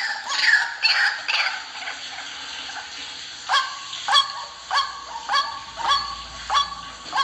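White-breasted waterhen (ruak-ruak) calling, as played from a lure recording. For about the first three seconds the harsh calls come thick and overlapping. After that they settle into an even run of short, sharp notes, a little under two a second.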